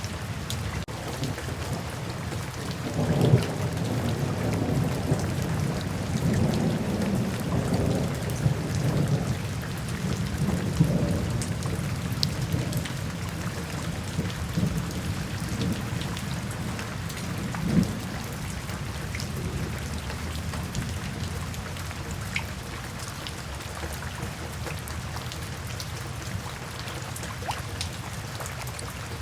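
Steady rain, with a long roll of thunder rumbling in a few seconds in and fading away by about halfway through.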